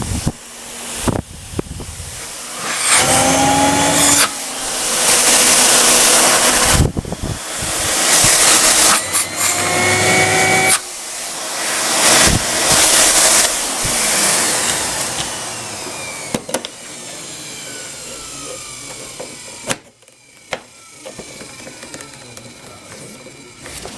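ETA 3408 Quinto canister vacuum cleaner running, its airflow noise surging up and down with brief rising whines. In the second half its motor sound falls away in a slow falling whine, as if it is winding down.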